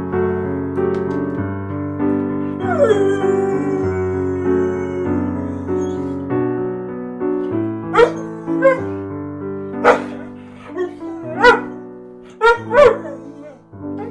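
A dog barking in short, sharp barks and yips, about seven in the second half, over background piano music.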